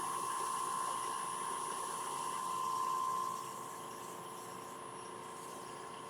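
Wood lathe running at raised speed with a steady whine while oil is burnished into a walnut bowl. The sound swells slightly and then drops to a lower level about halfway through.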